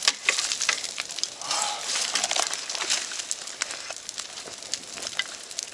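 Forest fire burning close by: irregular sharp snaps and pops of burning wood over a steady hiss.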